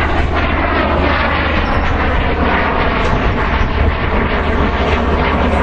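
Fixed-wing airplane flying at an air show display, its engine noise steady and loud over a heavy low rumble.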